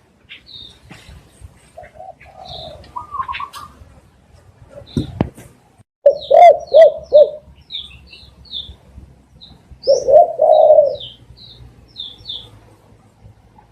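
Spotted dove cooing: a quick run of four low coos about six seconds in, then a longer, rolling coo around ten seconds. Small high chirps of other birds are scattered throughout, and there is a brief knock about five seconds in.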